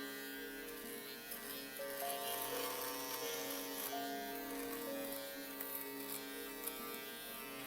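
Electric shaver buzzing steadily, its pitch shifting slightly up and down every second or so.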